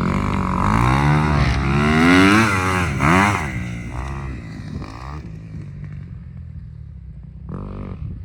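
Off-road motocross engine revving up and down as the machine rides the track, loudest about two to three seconds in, then settling to a lower, steadier drone that fades.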